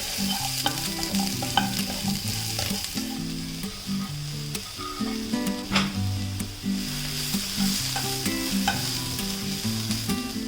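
Food sizzling as it fries in a pan while being stirred, with occasional clicks of the utensil against the pan.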